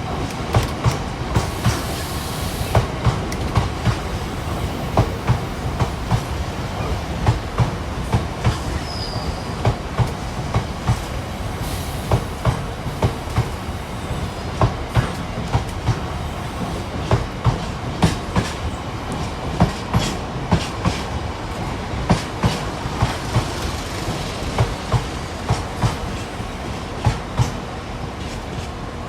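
Train wheels clattering over rail joints in a steady rhythm of knocks, roughly one to two a second, over a low rumble, with a couple of brief hisses.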